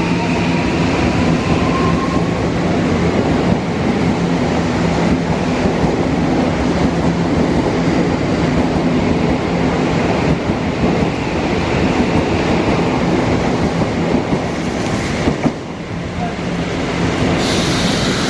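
Odakyu 1000-series electric train pulling out of the station: a motor whine rises in pitch over the first couple of seconds, then the train runs past with a steady rumble and the clack of its wheels. The noise drops suddenly about fifteen seconds in, and a hiss comes in near the end.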